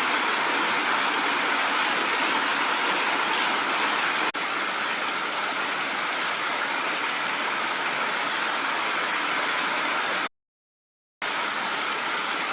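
Steady rain falling hard, a dense even hiss. It is broken once by a cut to full silence for about a second near the end.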